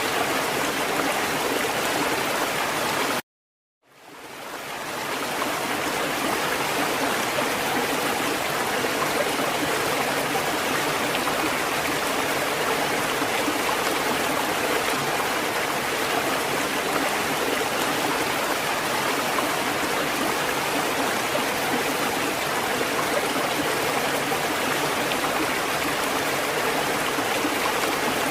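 Steady rushing water, an even continuous wash without distinct wave surges. About three seconds in it cuts off to silence for half a second, then fades back in: the splice point where the recording loops.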